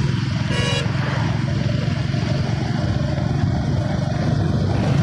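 Motorcycle engine running steadily while riding, with road and wind noise. A short beep sounds about half a second in.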